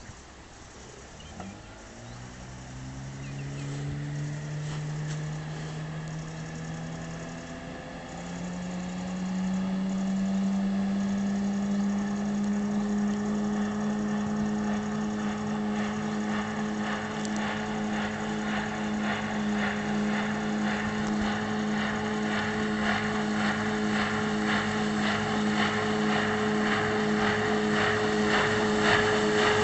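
Parsun 9.8 hp outboard motor throttling up, its pitch climbing for about the first ten seconds, then running at a steady high pitch that slowly grows louder.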